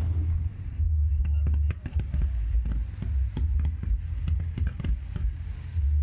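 Fireworks display going off: an irregular run of sharp cracks and pops, several a second, over a deep continuous rumble.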